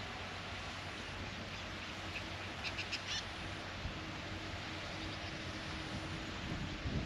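Bird calls, a short run of sharp chirps about two and a half seconds in, over a steady rural background hiss with a faint low hum.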